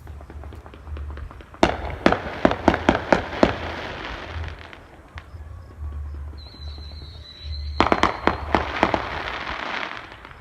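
Fireworks going off in two volleys of rapid, sharp cracks with crackling between them, the first starting about one and a half seconds in and the second near eight seconds. A thin whistle sounds briefly just before the second volley.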